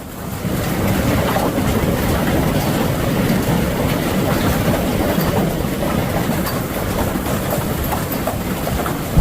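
Heavy hail pelting down: a dense, steady clatter of countless small ice impacts.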